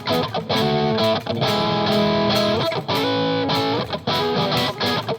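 Electric guitar played through an EarthQuaker Devices Palisades overdrive pedal on Voice 4, its asymmetrical silicon diode clipping, with the bridge-and-middle single-coil pickups. Overdriven chords are strummed and let ring, with a few short breaks between them.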